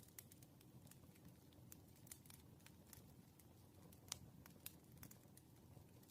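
Faint wood fire crackling: irregular sharp pops and ticks over a soft low rumble, with one louder pop about four seconds in.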